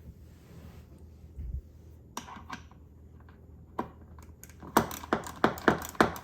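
A 1/2-inch socket wrench clicking as it turns the chainsaw's bar nut loose: a few scattered clicks, then a run of sharp clicks about three a second near the end.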